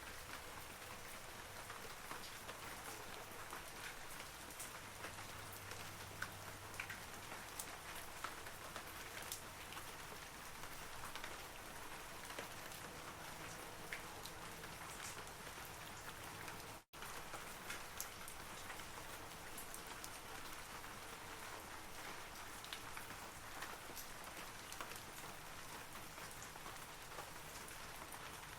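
Steady rain falling on forest trees, an even hiss scattered with many distinct droplet ticks. The sound cuts out completely for an instant about 17 seconds in.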